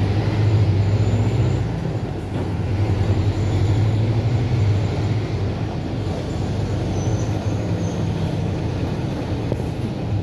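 Mercedes-Benz OF-1721 BlueTec 5 bus's four-cylinder diesel engine running steadily, with a low hum, while the bus is in service. The sound dips briefly about two seconds in.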